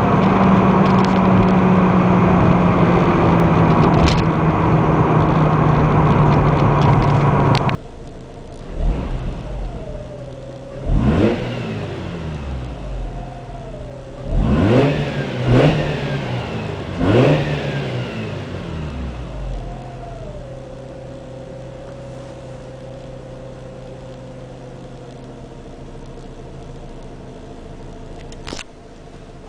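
Mazda RX-8's Renesis rotary engine heard from inside the cabin through a dual cat-back exhaust: a steady loud drone while driving, which breaks off abruptly about eight seconds in. Then several quick throttle blips rise and fall in pitch, and the engine settles into a steady idle.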